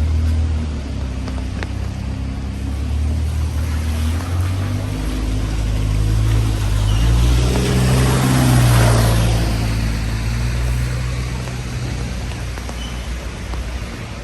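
Street traffic on a wet road: a heavy vehicle's engine running low, while a vehicle's tyres hiss past, swelling to their loudest about eight or nine seconds in and then fading.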